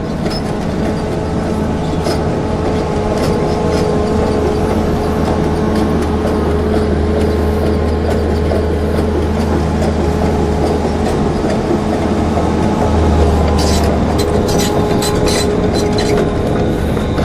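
Excavator's diesel engine running steadily with a constant hydraulic whine. The low drone grows louder about three-quarters of the way through, followed by a quick run of metallic clanks and rattles.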